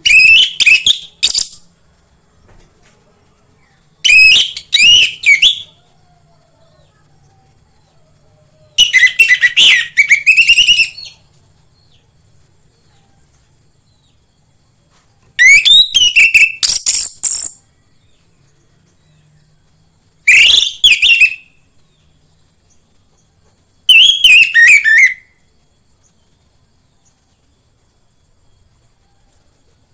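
Orange-headed thrush singing: six short bursts of rapid, varied whistled phrases, each a second or two long, with pauses of a few seconds between them. A faint steady high hiss runs underneath.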